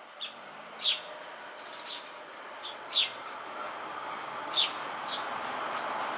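Eurasian tree sparrow chirping: about seven short, sharp chirps that drop in pitch, at irregular intervals, over a steady background noise that grows a little louder near the end.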